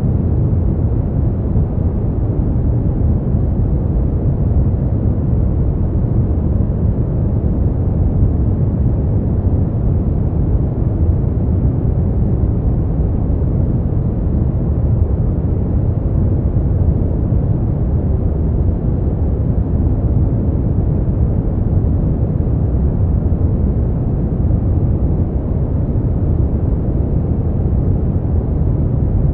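Brown noise: a steady, deep rumbling hiss with its weight in the bass and little treble, unchanging throughout.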